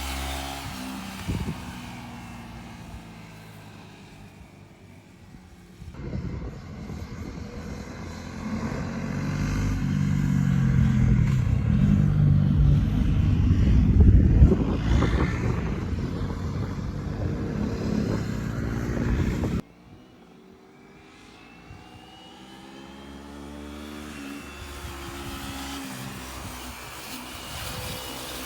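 Vehicle engines running. A louder engine starts suddenly about a fifth of the way in, builds to a peak about halfway and cuts off abruptly; afterwards quieter engines run again, slowly growing louder.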